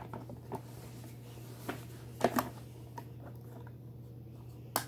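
A few light clicks and taps of a toy garbage truck and its bins being handled, spaced out over a steady low hum.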